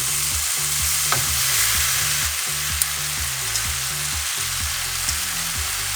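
Chicken chunks, potatoes and onions frying in a skillet over high heat, with a steady sizzle.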